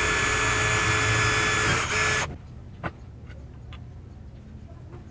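Bosch GMR 1 palm trim router running steadily at speed, a constant high whine, which stops abruptly a little over two seconds in. A single sharp click and a few faint light ticks follow.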